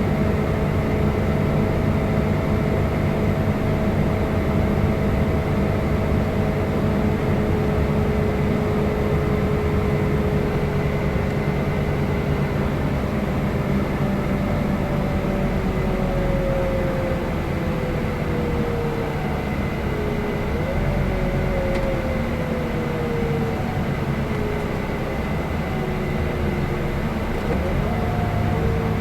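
Scania K320 IB coach engine and drivetrain running under way, with a steady whine. Partway through the whine slowly falls in pitch as the coach slows. About two-thirds of the way in it steps up once, and near the end it rises again.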